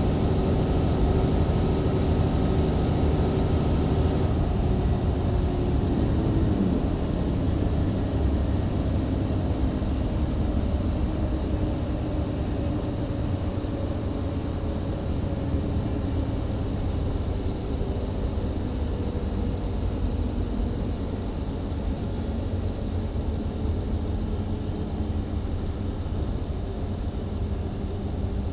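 Mercedes-Benz Citaro C2 LE MÜ Hybrid bus with a Voith automatic gearbox driving at speed, heard from inside the cabin: steady diesel engine and road noise. About five seconds in the engine note glides down in pitch, and it then runs lower and a little quieter.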